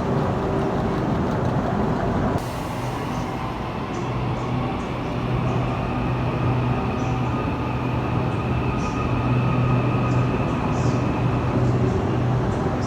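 Electric ETS train running: a steady low hum, with a thin high whine from about four seconds in until shortly before the end. The sound changes abruptly a couple of seconds in.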